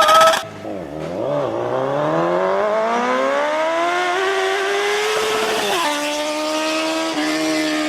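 Motorcycle engine running under load, its pitch climbing steadily for about three seconds, then dropping sharply about six seconds in and holding steady.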